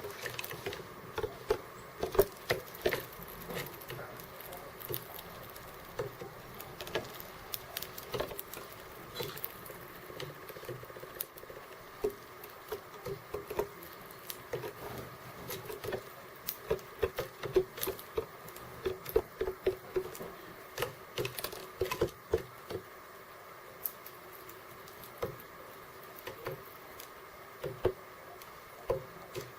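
Birds pecking at seeds on a feeder close to the microphone: quick, irregular taps and clicks in scattered clusters.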